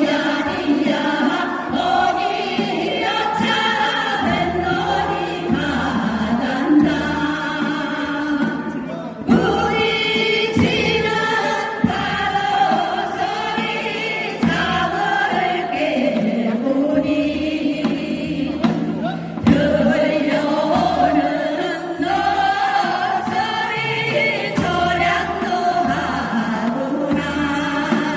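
A group of voices singing together, with wavering held notes over a low, regular beat.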